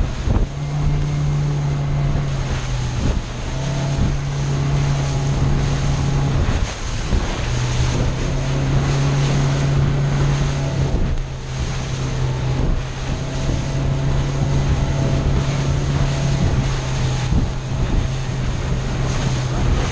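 Motorboat engine running steadily with a low hum, with wind buffeting the microphone and the rush of water around the boat. The hum fades briefly a couple of times, the longest dip about seven seconds in.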